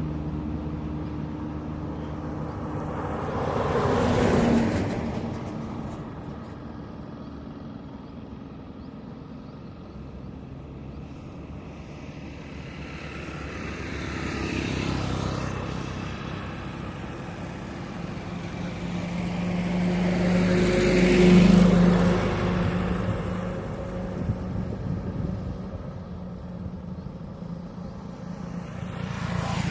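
Road traffic on a highway, with motor vehicles passing one after another, about four in all. Each swells and fades. The loudest passes about two-thirds of the way through with a steady engine drone, and steady engine hum runs under the quieter stretches.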